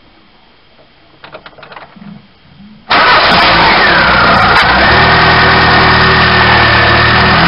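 Car engine being started: a couple of seconds of faint cranking noises, then the engine catches about three seconds in and runs loud and steady, heard close up from inside the front wheel arch.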